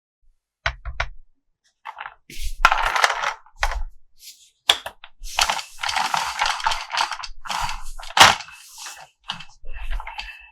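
Hands handling plastic toys and their packaging: irregular clicks, taps and rustling, with a sharp click about eight seconds in.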